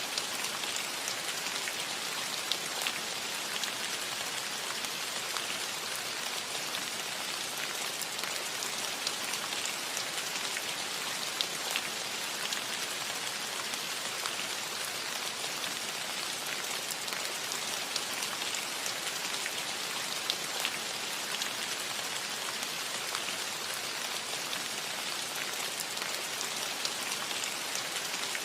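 Steady rain falling on a roof, an even hiss with scattered sharp drips and drop ticks throughout.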